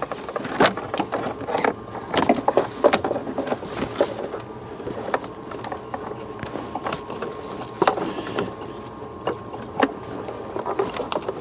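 Hands working plastic EVAP hose connectors and the purge valve free from its bracket: irregular clicks, knocks and light rattles of plastic parts.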